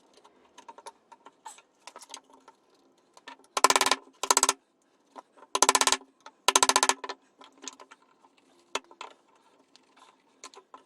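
Hand tool digging and scraping wood out from around a screw embedded in a board: scattered light clicks and scrapes, with four short, loud rasping scrapes between about three and a half and seven seconds in.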